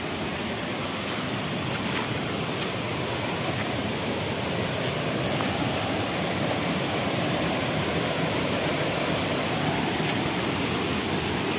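Steady rush of a waterfall running in full flow after heavy rain.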